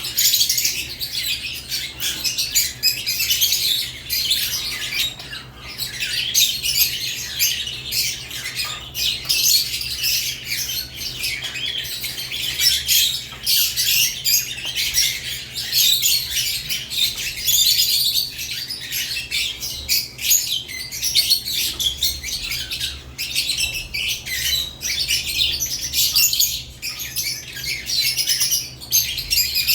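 Caged lovebirds chattering nonstop: a dense stream of rapid high chirps and squawks from several birds at once.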